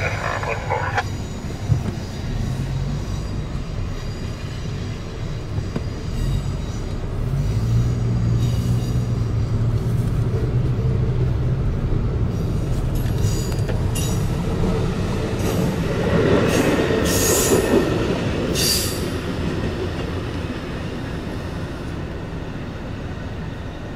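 Train rolling through a road grade crossing: a steady rumble of cars and wheels on the rails, heard from inside a stopped car, with several sharp high-pitched bursts about two-thirds of the way in.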